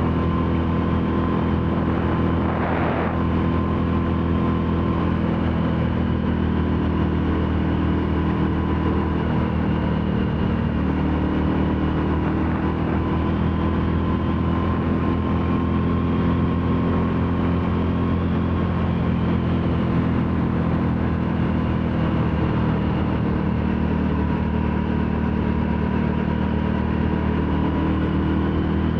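Royal Enfield Classic 350's single-cylinder four-stroke engine running under way at a steady cruise, its pitch easing and rising a little, with steady road and wind noise.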